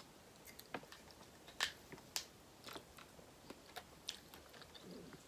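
Quiet close-up eating sounds of chewing crab: scattered sharp wet clicks and small crackles, a couple of them louder about two seconds in.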